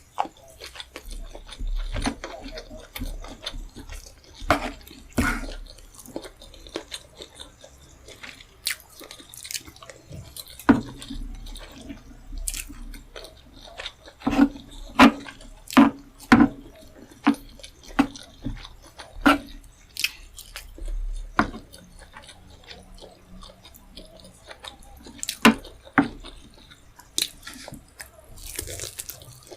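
Close-miked wet chewing and mouth smacks of someone eating rice and tomato stew with fish head, with irregular sharp clicks and squelches, densest about halfway through.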